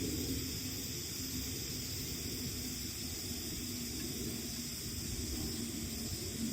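Steady hissing background noise with a faint wavering low hum beneath it.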